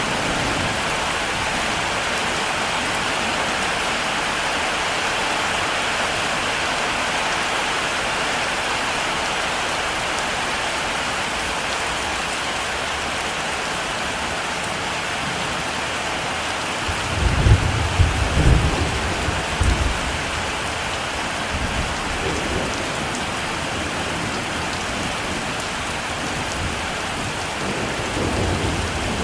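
Heavy rain falling steadily, with a low rumble of thunder rolling for a few seconds about two-thirds of the way through and another starting near the end.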